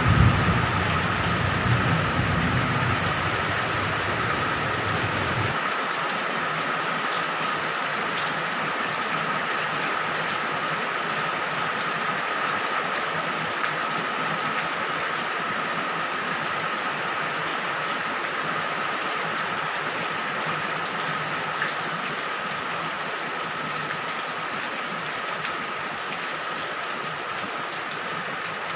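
Steady rain falling at night, an even hiss with a thin steady tone running through it. A low thunder rumble from a passing storm dies away in the first few seconds, then cuts off sharply.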